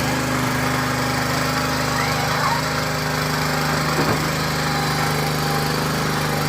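Hand tractor engine running steadily at a constant speed while threshing millet.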